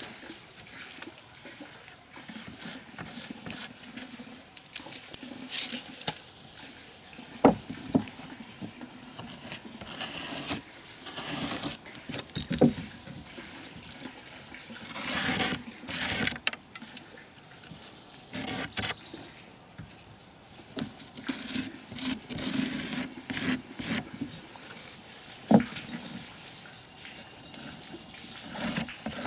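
Hand-working sounds: irregular rustling and scraping, with scattered knocks, the sharpest about seven seconds in and again near the end.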